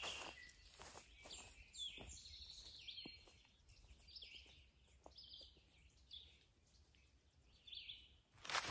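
Faint woodland birds giving short, scattered chirps. A few soft footsteps on a leaf-littered trail fade out in the first few seconds. A short burst of louder rustling comes just before the end.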